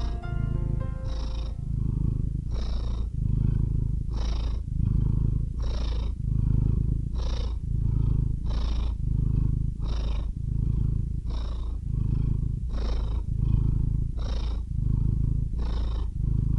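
A domestic cat purring close up: a low, steady rumble that swells and eases with each breath, about one breath every second and a half. The closing music fades out in the first second or so.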